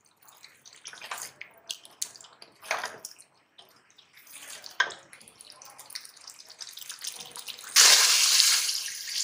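Beef karahi being stir-fried with a spatula in a pressure-cooker pot: scattered scrapes of the spatula against the pot with a soft sizzle. Nearly eight seconds in, a sudden loud, steady sizzling hiss starts and holds.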